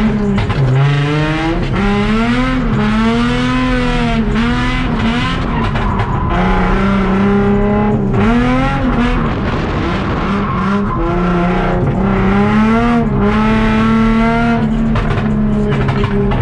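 Drift car engine revving hard, its pitch swinging up and down about once a second as the throttle is worked through a slide, over a haze of tyre noise.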